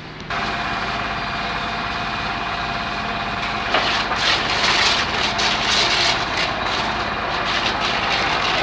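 High-pressure car-wash washer motor switching on abruptly and running with a steady hum; a little under halfway through, a louder hiss of the water spray joins it and continues.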